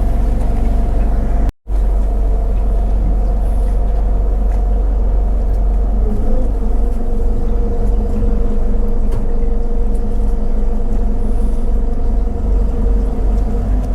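Motorboat engine running steadily at cruising speed: a loud, low drone with a steady hum above it. It cuts out for a moment about a second and a half in, then carries on unchanged.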